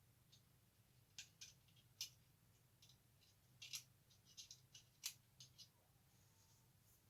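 Faint, irregular small clicks and taps of hard plastic model-kit parts being handled and test-fitted, about a dozen over several seconds.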